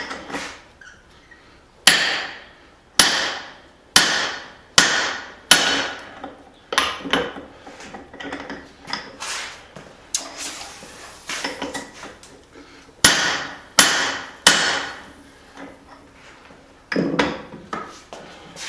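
Hammer blows on a hot punch being driven through a steel hammer-head blank to shear out the eye, each a sharp metallic strike with a short ring. The blows come about once a second in two runs with a pause between them, and a last single blow near the end.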